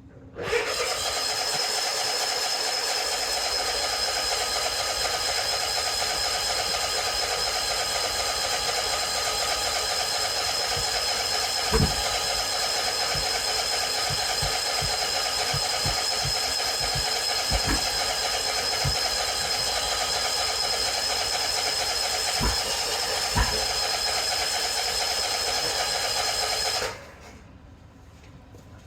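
Exmark mower's electric starter cranking continuously with a steady high whine, the engine not catching; it cuts off suddenly near the end, consistent with a mower that won't start.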